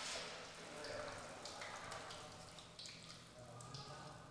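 A batter-coated chicken piece going into hot oil in a frying pan and frying with a faint sizzle and crackle that starts suddenly as it goes in.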